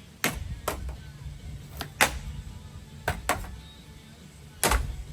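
Sharp hard hits, about seven in uneven pairs and singles, over a low steady hum: impacts in the wrecking of a ceiling fan.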